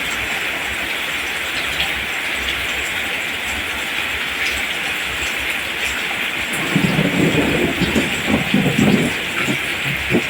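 Steady rain falling as an even hiss. About two-thirds of the way through, a low rumble of thunder swells for a few seconds and then fades back into the rain.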